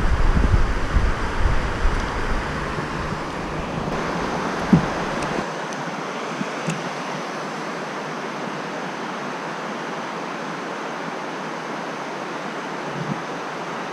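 Strong wind buffeting the microphone in low rumbling gusts for the first five seconds or so, over a steady rushing hiss that continues throughout, with a brief knock about five seconds in.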